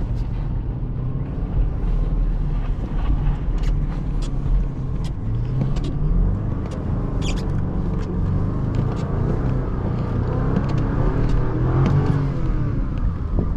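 BMW X5's twin-turbo V8 revving up and down while the truck spins donuts on snow, its pitch rising and falling several times. Scattered sharp clicks sound over the engine.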